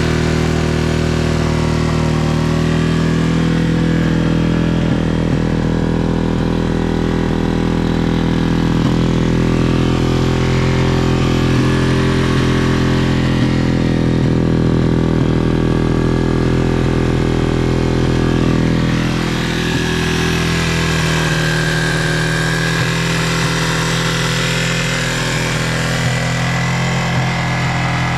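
1999 Yamaha TTR225's air-cooled single-cylinder four-stroke engine idling steadily while it warms up after a cold start, with a slight change in its note about two-thirds of the way through.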